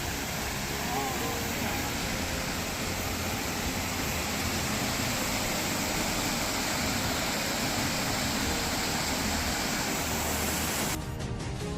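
Steady rushing noise with no clear rhythm, cut off abruptly near the end as music starts.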